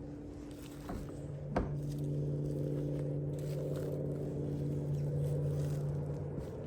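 A small engine or motor running steadily at an even pitch, growing louder after a sharp knock about a second and a half in.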